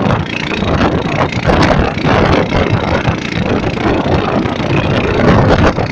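Strong storm wind buffeting the microphone: a loud, continuous rushing noise with uneven low rumbling gusts.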